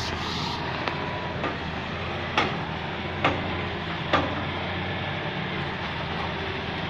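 Hitachi EX-200 excavator's diesel engine running steadily, with three sharp knocks about a second apart in the middle and a few fainter ones around them.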